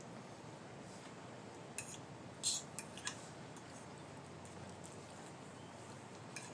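Fork and knife clinking and scraping lightly against a dinner plate: a few short clicks and one brief scrape about two and a half seconds in, over a faint steady room hum.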